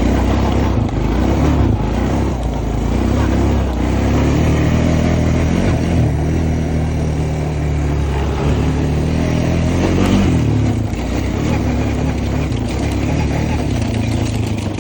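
Honda Foreman ES four-wheeler's single-cylinder engine running under load in second gear, its pitch rising and falling with the throttle as it rides.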